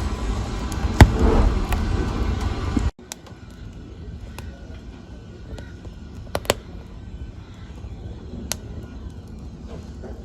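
Wood fire burning in a fireplace, crackling with sharp pops. A louder rushing burn for about the first three seconds drops off abruptly to quieter crackling with a few loud single pops.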